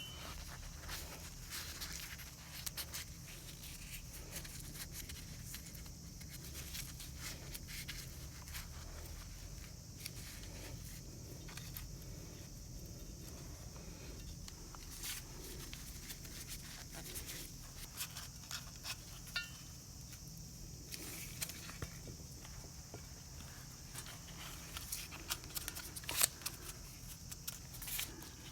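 Faint scattered clicks and taps, like small metal parts or tools being handled, over a steady hiss.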